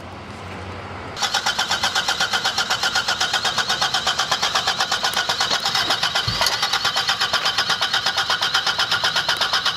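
Starter motor cranking the 1985 Toyota Corolla's 1.6-litre four-cylinder engine, a steady rapid pulsing that starts about a second in and goes on without the engine catching. A single low thump about six seconds in.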